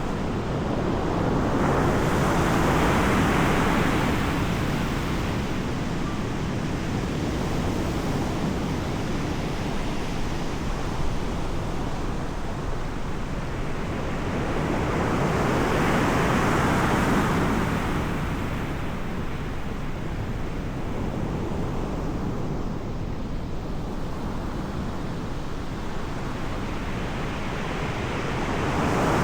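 Ocean surf: a rushing noise that swells and fades as waves break, cresting three times, over a constant low rumble of wind on the microphone.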